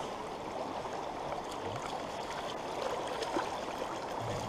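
Small trout stream running steadily over rocks: an even rush of water.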